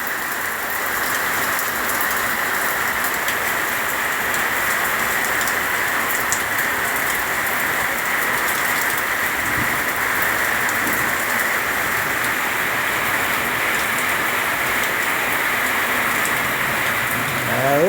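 Rain falling steadily, an even hiss with scattered drop ticks.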